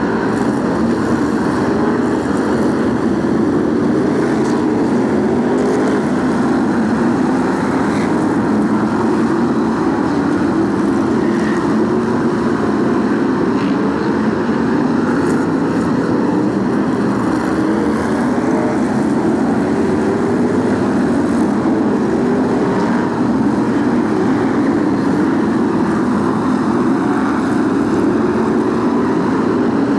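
BriSCA F1 stock cars racing round the oval, a pack of big V8 engines running hard together in a loud, unbroken drone.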